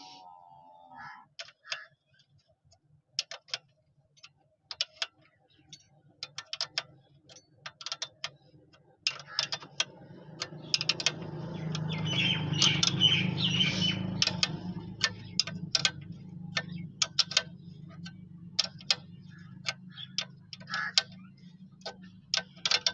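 Irregular sharp clicks and clinks, with a low drone that comes in about nine seconds in, swells for a few seconds, then holds steady.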